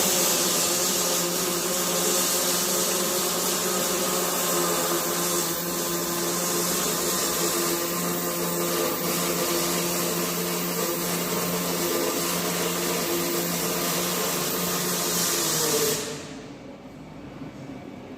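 Electric welding arc crackling and hissing steadily while a bead is run on a steel chassis frame, with a low hum under it. It breaks off abruptly near the end as the arc is stopped.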